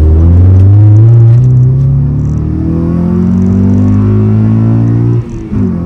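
9th-generation Honda Civic Si's 2.4-litre four-cylinder, through an aftermarket downpipe and exhaust, accelerating hard with its pitch climbing steadily. About five seconds in the sound dips and the pitch falls away, as at a gear change, then pulls again.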